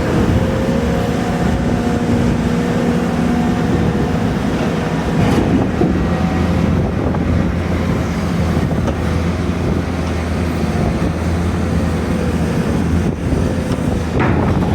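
Diesel engine and hydraulics of an excavator working as it unloads timber: a steady low engine drone with a held hydraulic whine over it, and a few knocks.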